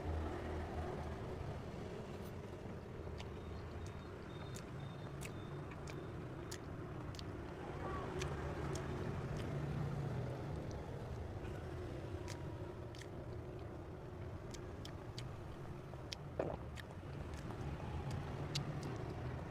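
Quiet eating sounds: scattered small clicks and smacks of chewing a soft green tea cream cake, over a steady low background rumble.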